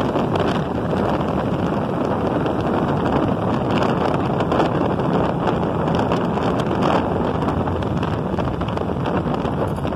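Steady wind rush over a motorcycle-mounted phone's microphone while riding, mixed with the motorcycle's engine and road noise.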